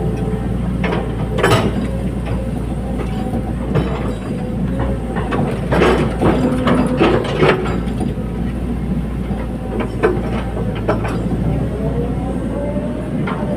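Caterpillar 320D hydraulic excavator working, its diesel engine running steadily under load, with scattered metallic clanks and knocks, a cluster of them about six to seven and a half seconds in. The engine note sweeps up and down near the start and end.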